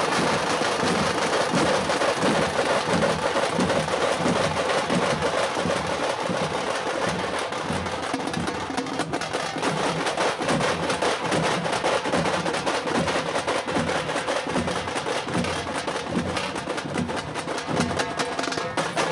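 A group of tamate frame drums beaten with sticks, playing a fast, dense rhythm of sharp strokes.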